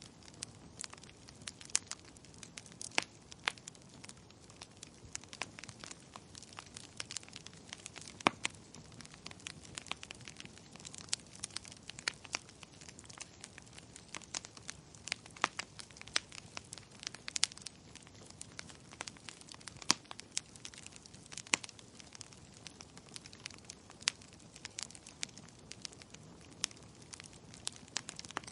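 Wood fire crackling in a fireplace: many sharp pops and snaps at irregular intervals, some much louder than others, over a faint low hiss.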